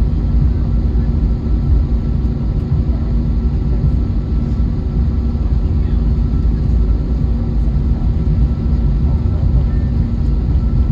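Airbus A321neo cabin noise on the ground: a steady low rumble with a few constant hums from the jet engines running at low power during taxi, heard from inside the cabin.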